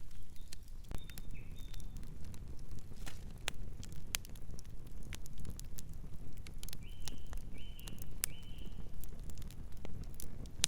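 Campfire crackling, with sharp pops and snaps scattered over a low steady rumble. A bird gives three short calls about seven seconds in, with a couple of fainter calls near the start.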